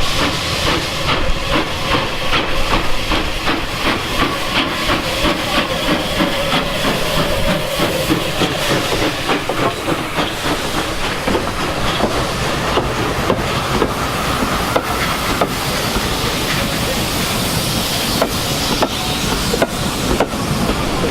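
Steam locomotive working past, a fast even run of exhaust beats over a steady hiss of steam, with a held tone in the first few seconds.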